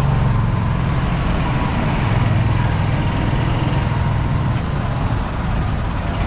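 Engine of a small buggy car running at a steady speed while driving, a continuous low drone with road and wind noise over it.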